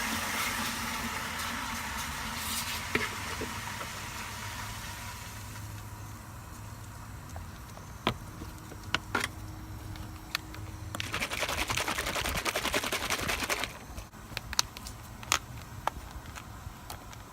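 Potting mix being scooped and poured into plastic seed trays: rustling and scraping, with a few sharp taps and clicks. A longer spell of hissing pour comes about two-thirds of the way through.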